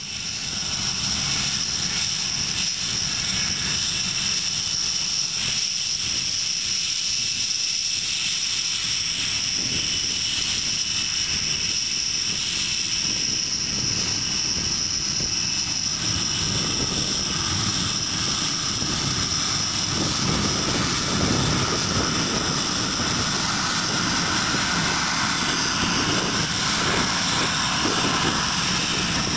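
Aircraft engine running steadily, a constant high whine over the engine noise.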